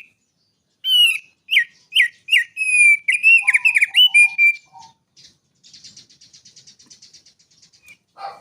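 Prenjak gunung songbird singing a loud run of whistled notes and sharp down-slurred whistles, its song filled with imitated cucak rowo (straw-headed bulbul) phrases. This is followed by a softer fast buzzy trill of about two seconds.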